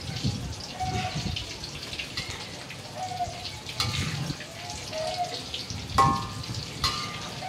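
Eggplant frying in a wok with a steady sizzle, while a metal spatula scrapes and clanks against the pan; one louder clank about six seconds in.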